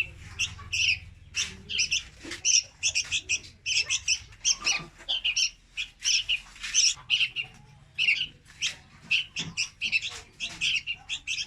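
Young red-whiskered bulbul calling: a quick run of short, high chirps, several a second, with only brief gaps.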